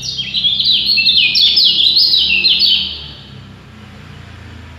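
A songbird singing a loud, rapid burst of quick chirping notes that stops about three seconds in.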